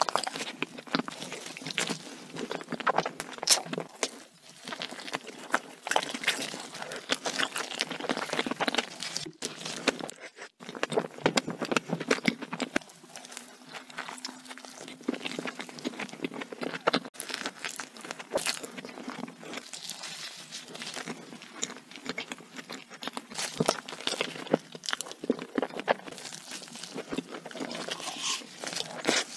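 Close-miked chewing and biting of cream-filled doughnuts: a dense run of small mouth clicks and smacks, with a couple of brief cuts.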